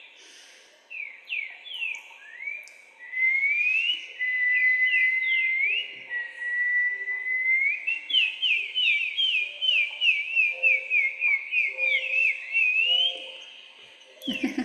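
Clear whistled song between high and very high pitch: rising slides and long held notes, then a quick run of short falling notes, about four a second, before it thins out near the end.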